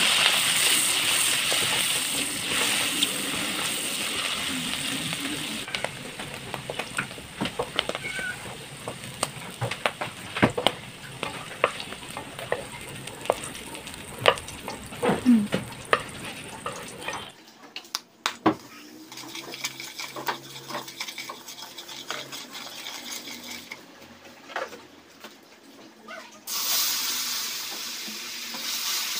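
Sliced mushrooms sizzling in hot oil in a metal wok, the sizzle loudest at first and fading over several seconds, then a wooden spatula scraping and clicking against the wok as they are stirred. Near the end a fresh burst of sizzling as boiling water is poured into the hot pan.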